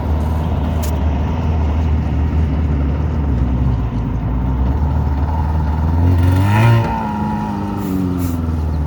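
Small jet boat's engine running steadily, its revs rising and falling briefly about six seconds in.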